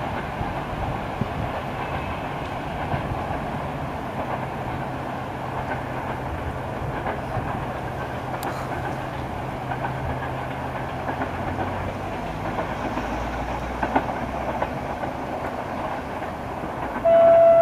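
A train running nearby, a steady rail rumble with a low engine hum. Near the end a loud, steady single-pitched horn starts sounding.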